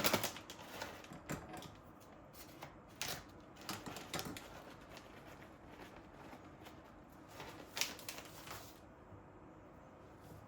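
Scattered light clicks and knocks, as of objects being handled and set down, several in the first half and a small cluster about eight seconds in, over a quiet room background.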